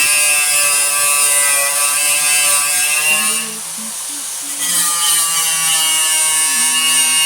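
Electric power tool motor running with a high whine and hiss; about halfway through its pitch and loudness sag for about a second, as if under load, then recover.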